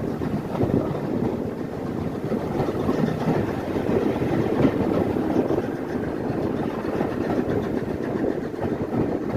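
Train running, a steady rumbling noise of engine and wheels.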